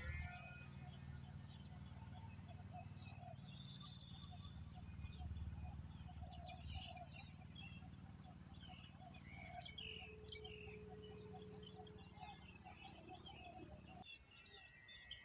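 Faint outdoor ambience of insects buzzing steadily, with scattered short bird chirps and a low rumble that cuts off near the end.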